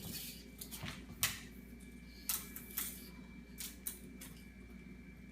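A few light, sharp clicks and taps scattered over several seconds, about six in all, over a faint steady hum.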